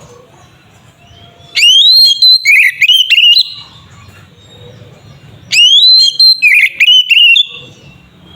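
Oriental magpie-robin (kacer) singing two loud phrases a few seconds apart. Each phrase opens with a rising whistle and breaks into a quick run of sharp, varied notes.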